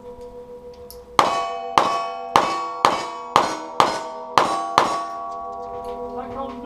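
A rapid string of eight gunshots about half a second apart, each answered by the ringing clang of a hit steel target, the ring hanging on after the last shot.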